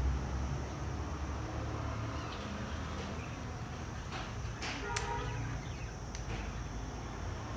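A budgie chick gives a short squeaky call about five seconds in, with a few faint chirps, over a low steady rumble.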